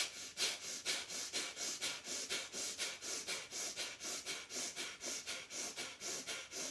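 Kapal Bhati breathing: rapid, forceful exhalations through the nostrils, each a short sharp huff as the belly pumps toward the spine, about four a second in an even rhythm.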